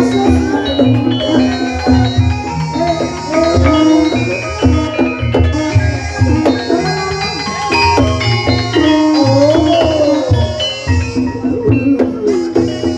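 Javanese traditional ensemble music for an ebeg dance: many struck, tuned metal notes over low drum beats, with a gliding melody line above them.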